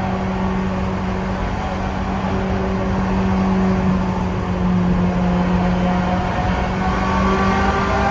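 Ferrari F355's V8 engine and exhaust heard from the passenger seat, running at steady revs, with the pitch edging up slightly near the end.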